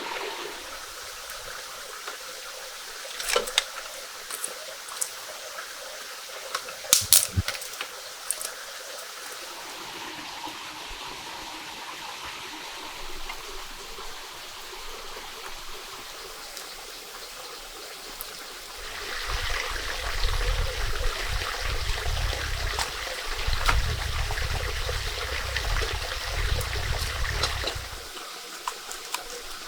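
Water trickling and running steadily, with a few sharp clicks early on and a louder rushing spell in the second half lasting about nine seconds.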